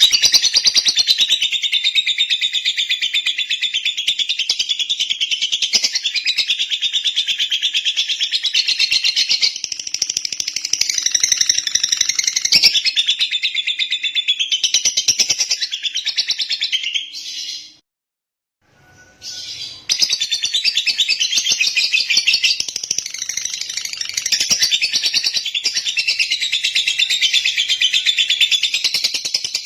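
Lovebird singing a long, unbroken run of rapid, high chattering trills. It breaks off for about two seconds a little past the middle, then starts again.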